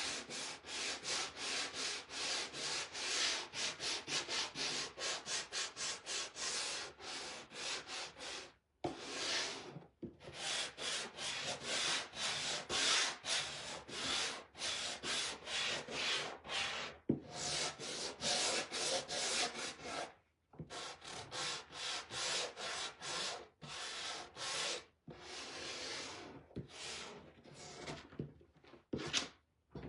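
Sandpaper rubbed by hand over a painted wooden surface in quick back-and-forth strokes, about four a second, stopping briefly a few times.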